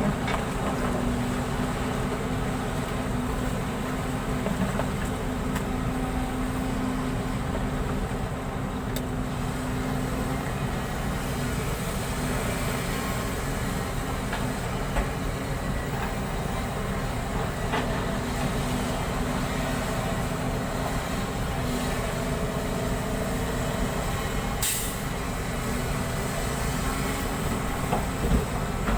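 A vehicle running with a steady low rumble and hum, with one brief sharp sound near the end.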